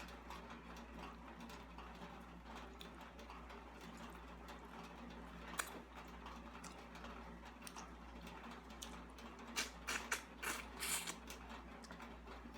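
Faint eating sounds over a steady low hum: scattered small clicks and smacks, one sharp click about halfway through, and a cluster of louder smacks or clinks near the end.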